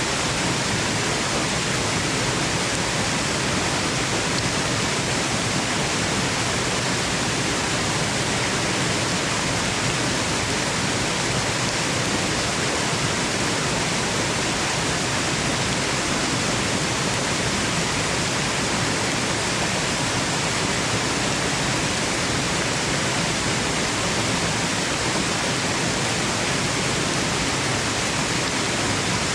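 Waterfall, a steady unbroken rush of falling water, even and unchanging like white noise.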